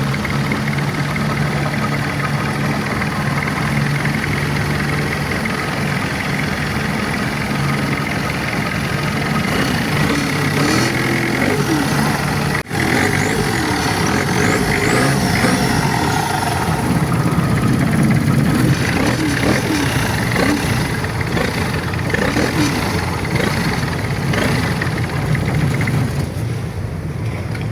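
Boat engine running steadily under way, with a steady low hum and rushing wind and water noise. The sound drops out for an instant about halfway through.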